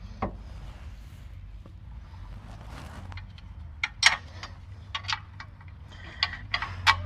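Sharp metal clicks and knocks from hand tools and bolts being worked while fitting a car's rear wheel hub, a single one near the start and several in quick succession in the second half, over a steady low hum.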